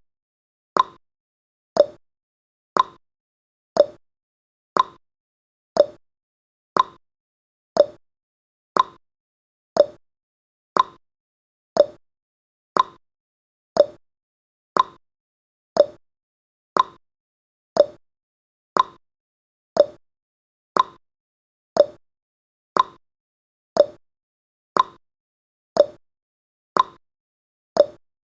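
Countdown timer's ticking sound effect: one short, sharp tick each second, at an even pace.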